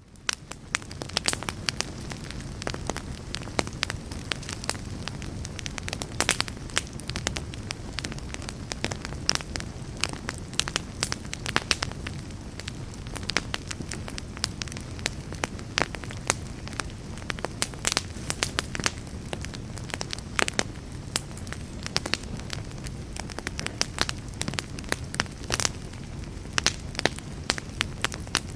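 Campfire burning, with frequent sharp crackles and pops over a steady low rush of flame. It fades in over the first second.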